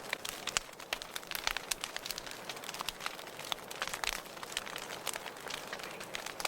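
Wood fire crackling in a fireplace: dense, irregular pops and snaps over a soft hiss, with a few louder pops.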